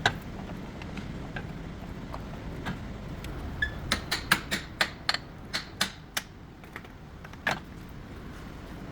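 Sharp clicks and taps: one at the start, a quick irregular run of about ten a few seconds in, and one more near the end.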